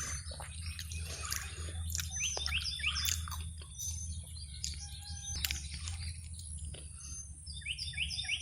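A songbird calling runs of short, quickly repeated falling chirps, once about two seconds in and again near the end, with scattered wet chewing and biting sounds of someone eating a ripe, juicy peach.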